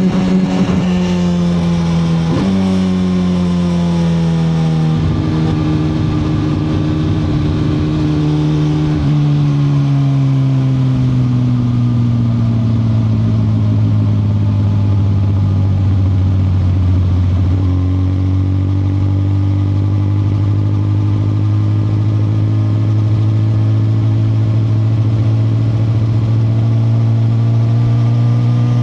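2021 Suzuki GSX-R1000R's inline-four engine heard while riding, its note stepping abruptly a few times in the first ten seconds as the gears change. It then settles to a lower, steady cruise that sags slightly before climbing gradually over the last ten seconds as the bike accelerates.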